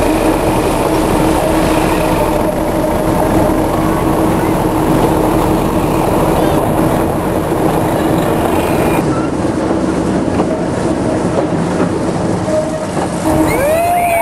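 Continuous rumble and clatter of a moving train heard from aboard a carriage, its wheels running over the track, with a steady hum underneath.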